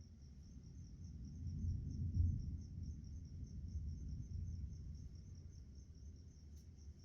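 Distant thunder rumbling low, building for about a second and a half and then fading over the next few seconds, over a steady pulsing chirp of crickets.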